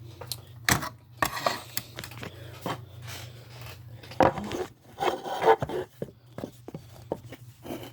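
Handling of RC car parts on a table: a string of sharp clicks and knocks as pieces are picked up and set down, with some rubbing and clatter about four to five seconds in, over a steady low hum.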